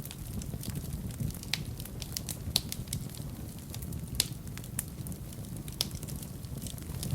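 Wood fire burning in a fireplace: a steady low rumble of flames with irregular sharp crackles and pops, the loudest pops about two and a half and four seconds in.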